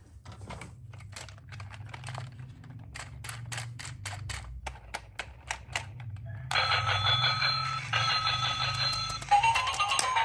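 A low steady hum with a run of sharp clicks that become regular, about four a second, like a small battery toy's motor and gears. About six and a half seconds in, music starts.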